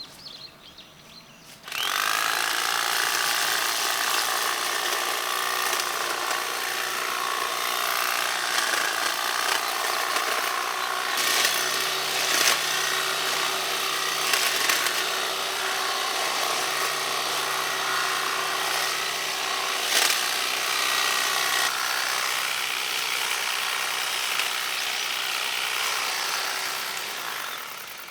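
Powered hedge trimmer running steadily as it cuts back a hedge. It starts abruptly about two seconds in, gives a few sharp clicks from the cutting along the way, and dies away near the end.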